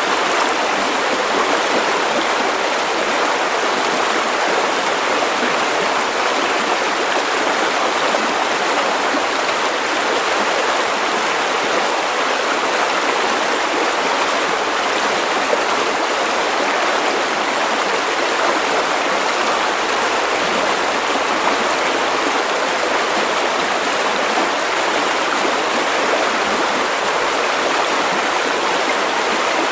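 Running river water flowing over stones, a steady, unbroken rushing.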